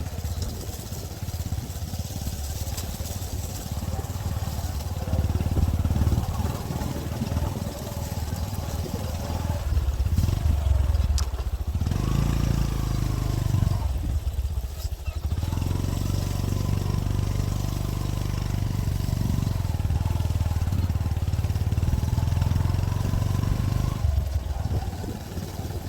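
Motorcycle engine running steadily throughout, its engine note shifting up and down a few times.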